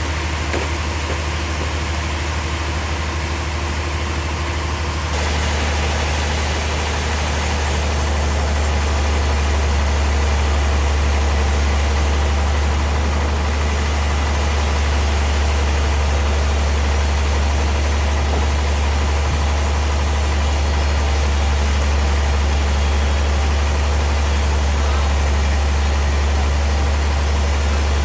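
Steady running of sawmill machinery driven by an engine, with a constant low hum. The sound grows louder and fuller about five seconds in.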